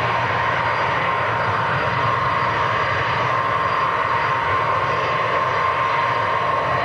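Jet airliner engines running steadily: a constant rushing noise with a high whine holding one pitch.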